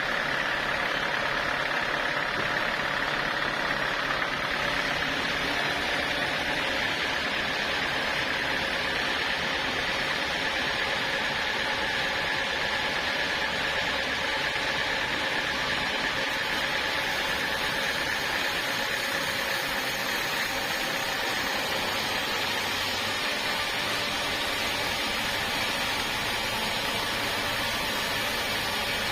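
Sawmill machinery running steadily, with a steady high whine over an even running noise.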